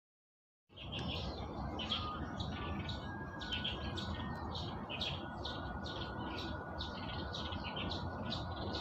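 Birds chirping in short high notes repeated about two or three times a second, starting a moment in, over a steady low background noise of the outdoors.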